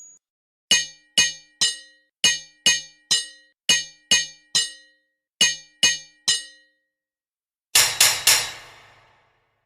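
Metal hammer striking an anvil with sharp ringing clangs: four evenly paced groups of three blows, then a final quicker triple that rings on for about a second.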